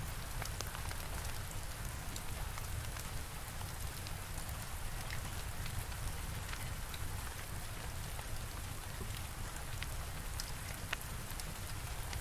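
Steady rain falling, with scattered sharp ticks and pops from a crackling fire mixed in.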